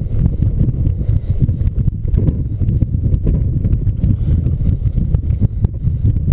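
Strong, gusty wind buffeting the microphone: a loud, rough low rumble that swells and dips, with scattered crackles.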